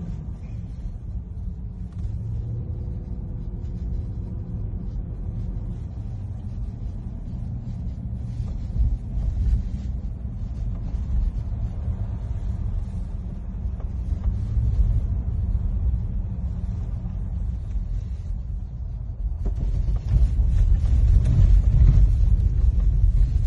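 Steady low rumble of a car driving, heard from inside the cabin, growing louder near the end.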